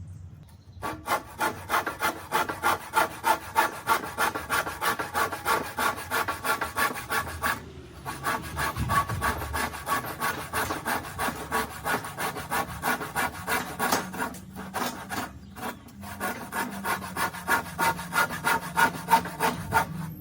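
Quick, rhythmic back-and-forth scraping strokes of a hand tool working a hard surface, with a short pause a little before the middle and a few brief gaps later on.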